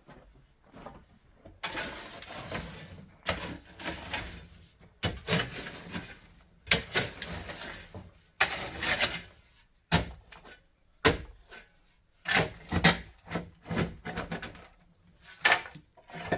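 Irregular scraping and rubbing with knocks from hands-on building work, a noisy burst every second or two.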